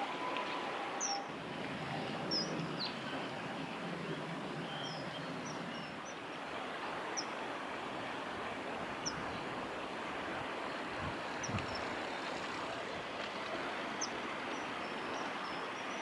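Short, high bird calls, about a dozen quick downward chirps every second or so, over a steady rushing background noise.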